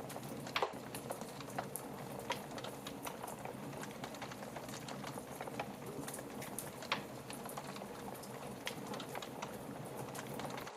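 Wood fire crackling, a steady low rush dotted with many small sharp pops. Two louder snaps stand out, one just after the start and one past the middle.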